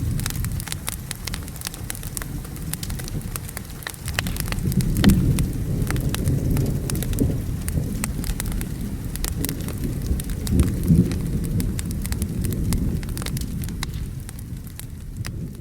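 Wood fire crackling over the steady rumble of rain and thunder; deeper thunder rolls swell about five seconds in and again about eleven seconds in, and the sound starts to fade at the very end.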